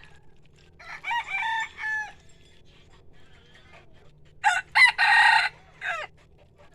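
Rooster crowing twice, the second crow louder and starting with a couple of short broken notes before the long drawn-out call.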